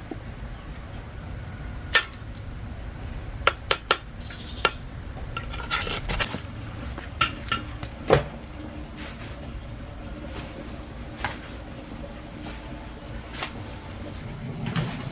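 Irregular sharp clinks and knocks of hard objects striking or being set down, about a dozen scattered through, the loudest a little past the middle, over a steady low background hum.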